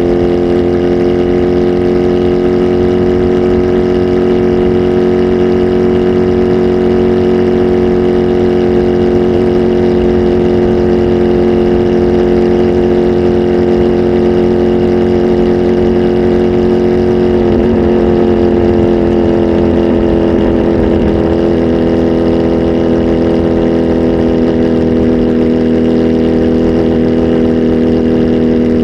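Kawasaki Z H2 SE's supercharged inline-four engine, breathing through an aftermarket full exhaust, running loud at steady revs. Its note rises slightly at first, wavers and dips briefly about two-thirds of the way through, then settles again.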